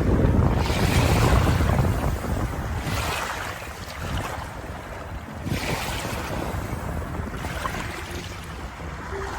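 Sea waves washing in on the shore with wind: a strong surge in the first two seconds, then a smaller one about halfway through.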